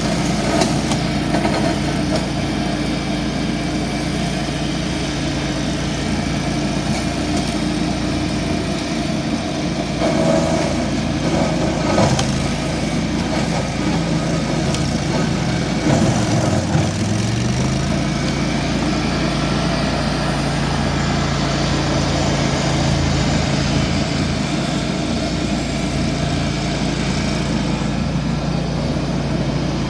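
Ventrac 4500Z compact tractor running steadily with its shredder attachment, with short bursts of extra noise near the middle. About two-thirds of the way through, the engine speed drops sharply and recovers within about a second.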